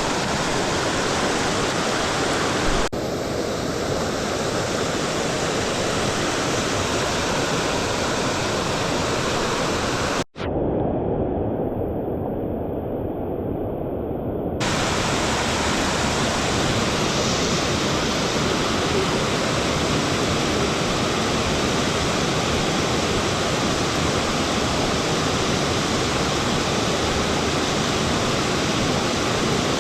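Waterfall rushing: a loud, steady wash of falling water, broken by a momentary dropout about ten seconds in.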